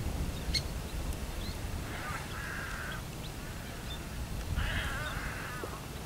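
Harsh bird calls: two croaking calls about a second long, one about two seconds in and one near five seconds, with a few short chirps between.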